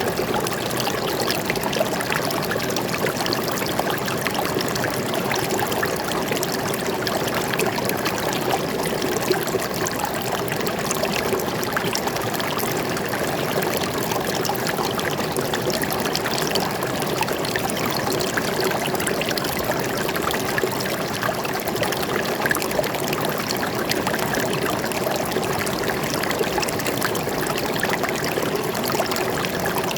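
A stream of water flowing and trickling steadily, a continuous even rush with no breaks.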